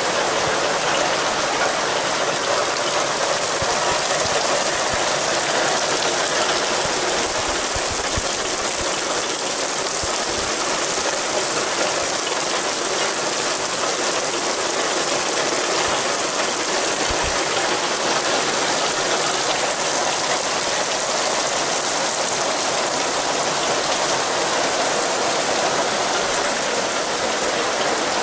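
Heavy summer rain falling steadily, a dense, even hiss of countless drops.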